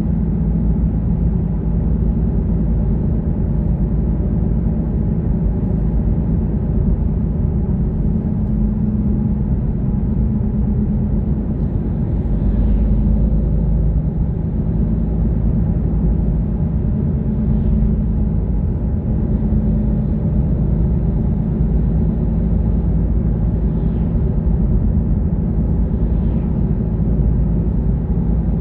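A car driving at a steady pace: continuous low engine and road rumble that holds even throughout.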